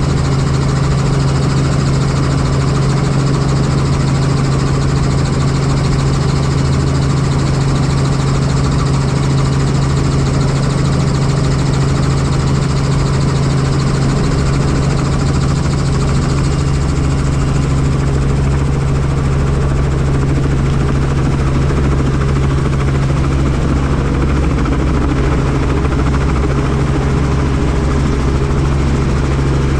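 Helicopter running steadily: a loud, constant drone of rotor and turbine with a strong low hum and a hiss over it. A little past halfway the hiss eases slightly and the deep rumble grows.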